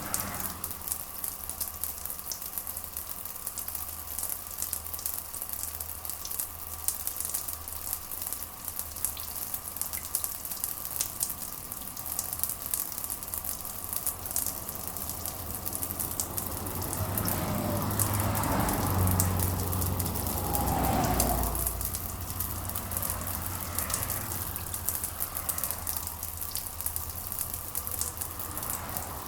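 Steady rain patter, a dense crackling hiss of drops. A low rumble swells up and fades away about two-thirds of the way through.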